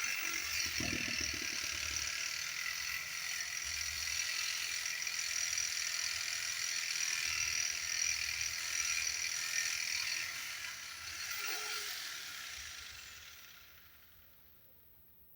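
Reciprocating saw (Sawzall) ripping lengthwise through a thick timber beam, running steadily, then winding down and stopping near the end.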